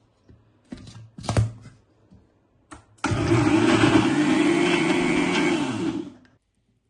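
Electric blender running for about three seconds, blending the dip ingredients, then winding down as it is switched off. Before it starts there are a few knocks and clatters, the loudest about a second and a half in.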